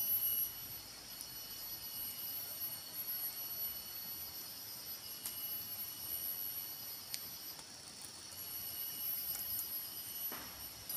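Forest insects chirring steadily in several high-pitched layers. The chorus drops back about half a second in and swells again near the end, with a faint knock just before it stops.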